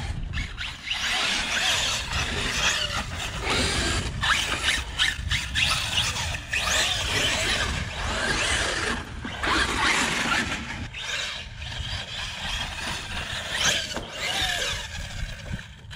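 Brushless electric RC monster trucks driving on wet sand, their motors whining up and down in pitch as they speed up and slow down, with a low wind rumble on the microphone.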